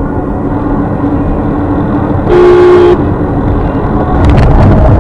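Steady engine and road noise from a moving car, with a car horn honking once for about half a second a little over two seconds in. A few sharp knocks come near the end.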